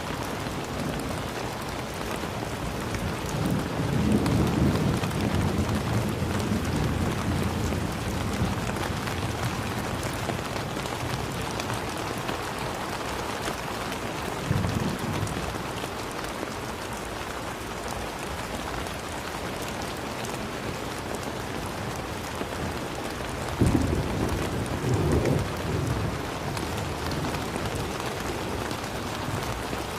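Steady rain falling, with low rumbles of thunder: a long one a few seconds in, a brief one near the middle, and a sharper crack with a second rumble about three quarters through.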